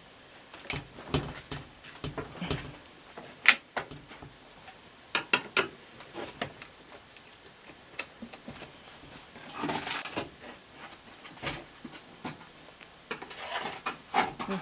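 Irregular clicks and knocks, with a short scrape about ten seconds in, of hands and tools prying at a stubborn, old, brittle plastic part of a front-load washing machine that will not come off.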